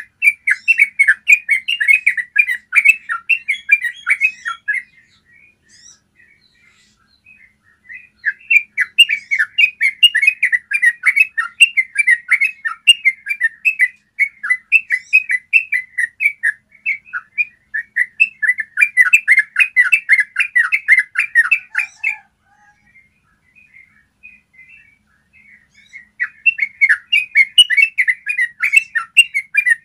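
Yellow-vented bulbul singing long runs of rapid, clear chattering notes. There are four runs, separated by pauses of a few seconds.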